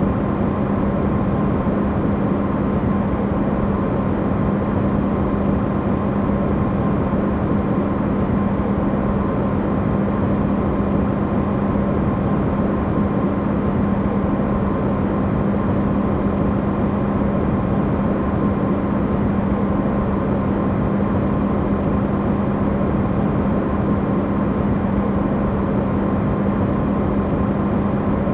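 Amplified running hum of an Electrolux side-by-side refrigerator, a steady drone with a low tone and a rushing noise, presented as white noise.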